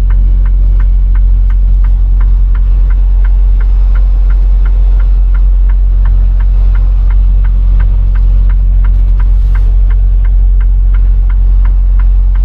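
Semi-truck engine running steadily, heard from inside the cab as a loud low drone, with a regular light ticking about three to four times a second.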